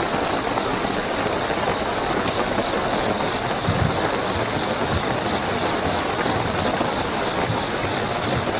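Steady, heavy rainfall, with a continuous high-pitched cricket trill running through it.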